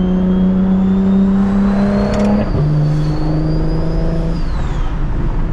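Single-turbo BMW N54 inline-six in a 335is accelerating hard, heard from inside the car, with a high turbo whistle rising as it pulls. About two and a half seconds in, an upshift drops the engine note, which climbs again until the throttle is lifted near the end and the whistle falls away.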